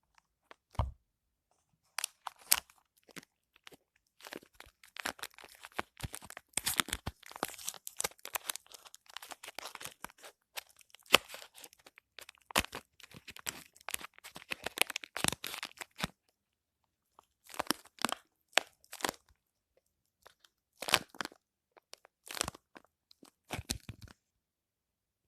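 A soap wrapper being torn open and crinkled by hand, in irregular bursts of tearing and crackling separated by silent pauses. A single soft knock comes just under a second in.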